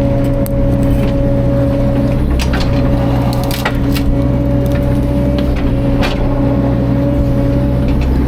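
Caterpillar 305.5 mini excavator's diesel engine running steadily under work, with a thin steady whine on top and scattered sharp cracks and snaps of wood being crushed or splintered.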